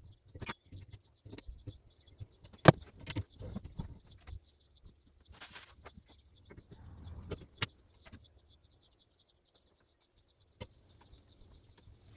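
Scattered sharp clicks and knocks, as of parts being handled and fitted during workshop reassembly of an old hand-cranked pillar drill. The loudest knock comes between two and three seconds in. A faint, rapid, high chirping continues in the background.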